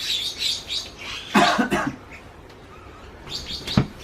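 Short, breathy, cough-like bursts of voice from people in the room, in three clusters, and one sharp thump near the end.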